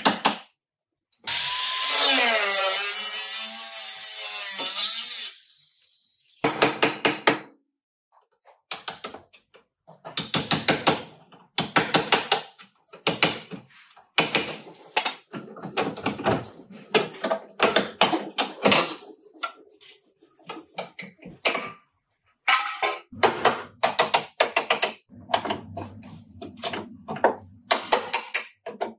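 Tool work on a car body: a power tool runs for about four seconds, its pitch swooping up and down, then many short bursts of rapid clicking follow one after another, typical of a ratchet or driver working fasteners. Near the end a low hum sounds under the clicking.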